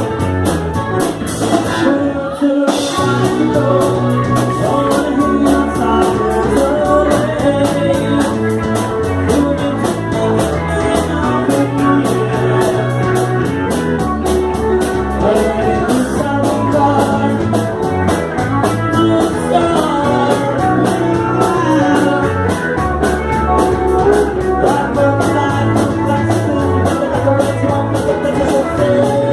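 Rock band playing with electric guitar, bass and drum kit keeping a steady beat. The band breaks off for a moment about two seconds in, then plays on.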